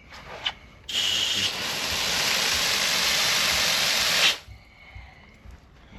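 Water gushing out of a newly installed outdoor hose valve as it is opened for about three seconds and then shut off, flushing the line after the valve was soldered in. The flow is a loud, even hiss that starts and stops abruptly.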